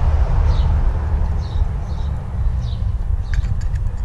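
A bird chirping several times in short, high, falling notes over a steady low rumble, with a few light clicks about three seconds in as small plastic lamp parts are handled.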